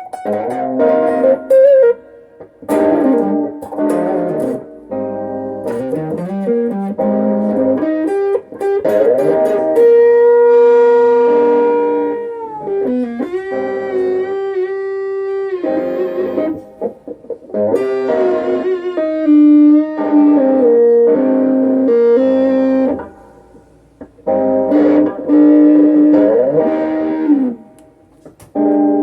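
Vintage V100 Lemon Drop electric guitar played through a Peavey Backstage Plus amp and a Boss ME-25 multi-effects unit: a lead line of picked notes, slides and string bends, with a long sustained note bent down around the middle and brief pauses between phrases.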